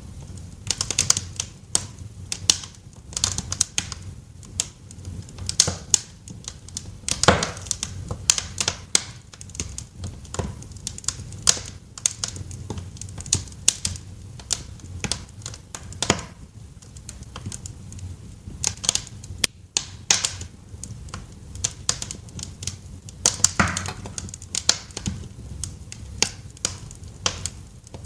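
Wood fire crackling in a fireplace: irregular sharp snaps and pops, a few louder ones, over a low steady rumble of the flames.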